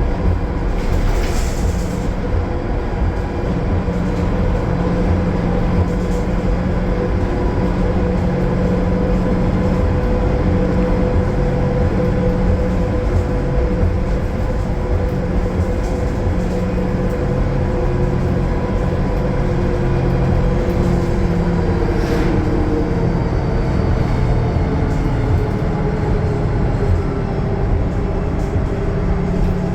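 Cummins ISL9 diesel of a 2020 Gillig Low Floor 40' transit bus running steadily at highway cruise through its Voith automatic transmission. A steady whine sits over the engine drone and road rumble.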